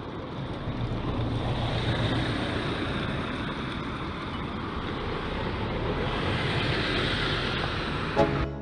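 Steady rushing noise, with a short sharp click near the end.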